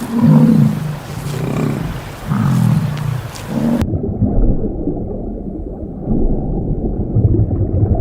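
A large animal's low, repeated growling roars. About four seconds in, they give way to a muffled, low rumbling growl.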